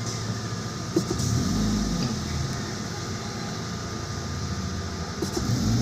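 Toyota Vios engine idling and revved with a throttle blip, the pitch rising and falling about a second in and starting to rise again near the end. The blips test for a lag in the rpm response; with the oxygen sensor unplugged, the mechanic judges it improved.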